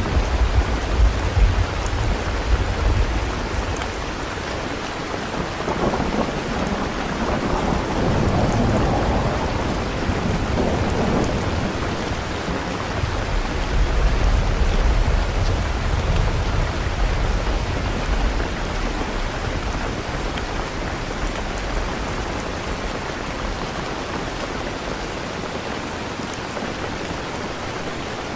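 Steady rain falling, with low rolling thunder rumbling in the first few seconds and again around the middle.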